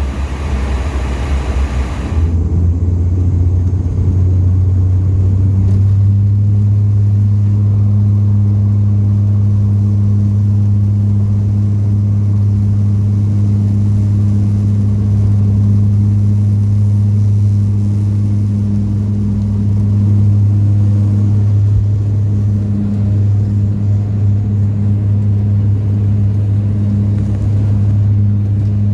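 Propeller and engine drone of a Dash 8-400 turboprop heard in the cabin at takeoff power: a loud, steady deep hum with a fainter higher overtone. It sets in about two seconds in as a hiss drops away, and grows fuller a few seconds later.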